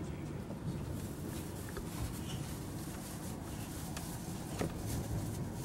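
Passenger train running through a station yard, heard from inside the carriage: a steady rumble of wheels on rails, with a few short sharp clicks.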